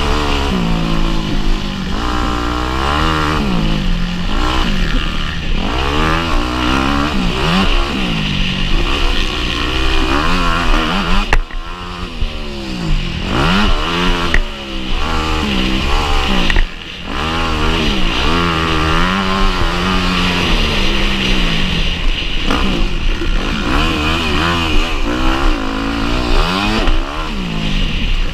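Motocross bike engine revving hard and falling away again and again as the throttle is worked and gears change, with a few brief drops where the throttle is shut.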